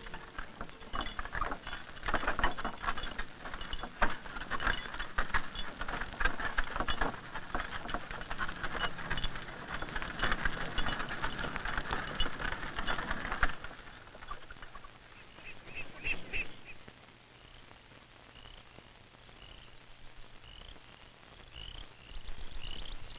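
A dense crackling patter for about the first thirteen seconds. It then drops away, and short high bird chirps repeat, coming faster near the end.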